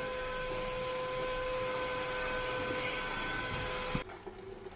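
A machine running with a steady hum and whine, cutting off abruptly about four seconds in.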